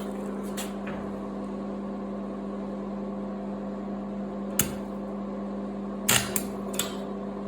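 Stick welder's transformer humming steadily while idling, with a sharp click a little over halfway through and a few more knocks near the end.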